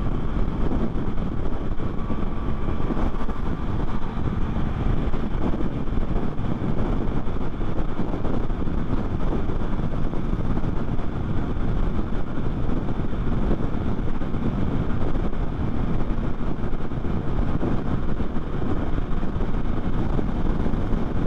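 Steady wind rush on the camera at highway cruising speed over the engine of a 2024 Yamaha MT-09, whose inline three-cylinder is running at a steady pace.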